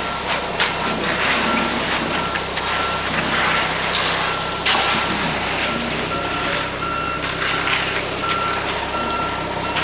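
Concrete truck's reversing alarm beeping about once a second over its diesel engine running, with scattered clatter.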